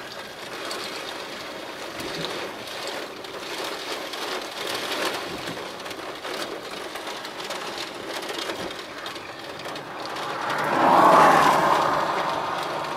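Steady rain noise, with a louder whooshing swell that builds about ten seconds in, peaks and then fades.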